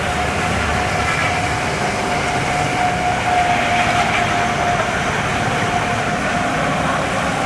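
Continuous loud truck noise: engine and tyre noise with a steady whine.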